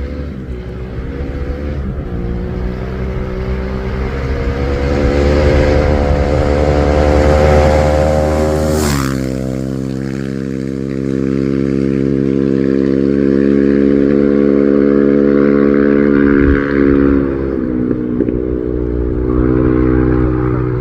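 A rally-raid competition vehicle's engine at full throttle approaches with its pitch rising. It passes close about nine seconds in with a sudden drop in pitch, then carries on at a steady note as it pulls away.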